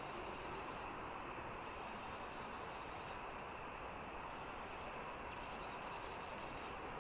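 Steady background rushing noise with a few faint, short, high chirps from small birds.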